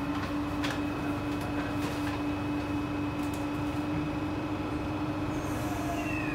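Passenger train running: a steady hum over a continuous rumble, with a few faint clicks and a short falling whine near the end.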